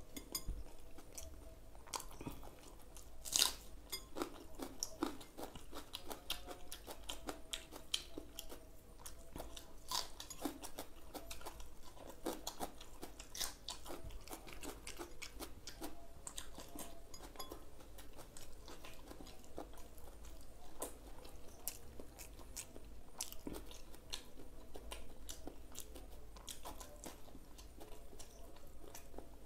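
Close-up chewing of boiled egg, a string of small wet mouth clicks and smacks, with a sharper click about three and a half seconds in.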